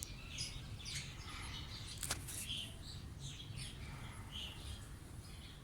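Small birds chirping: many short, high chirps overlapping at irregular intervals, with one sharp click about two seconds in.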